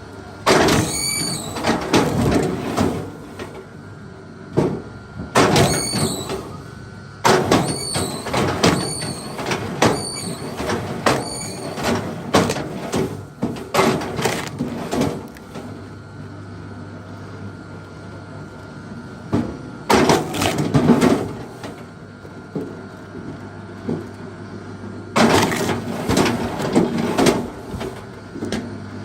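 Large wood being worked and split, giving repeated loud bursts of creaking and cracking, some with a high squeal, separated by short pauses.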